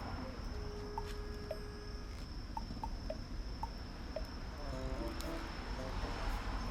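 Wood fire burning in a rocket stove: a steady low rumble with a few sharp crackles, under a steady high-pitched drone.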